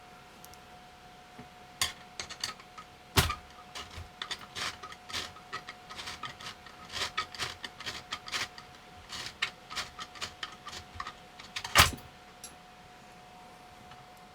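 Small hard parts being handled, with quick irregular clicks and rattles and two louder knocks, one about three seconds in and one near twelve seconds. A faint steady tone sounds underneath throughout.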